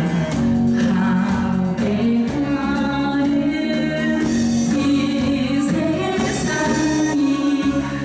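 A Korean trot song performed live: a woman singing held, gliding melody lines over a steady instrumental accompaniment.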